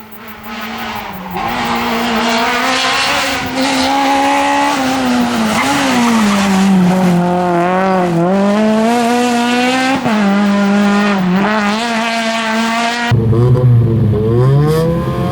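R2-class rally car's four-cylinder engine at high revs, its pitch rising and falling with throttle lifts and gear changes. About thirteen seconds in, the sound cuts abruptly to another engine climbing from lower revs.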